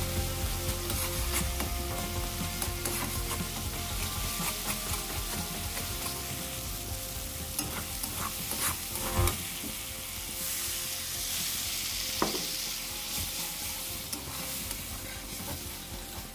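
Spiced masala sizzling in an aluminium kadai while a metal spatula stirs and scrapes it around the pan, with a few sharper clacks of the spatula against the pan about nine and twelve seconds in.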